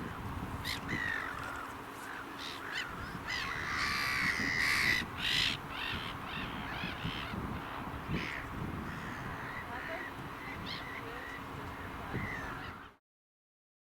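Birds calling repeatedly, a string of short calls that is busiest around four to six seconds in, over a steady low hum. The sound cuts off abruptly near the end.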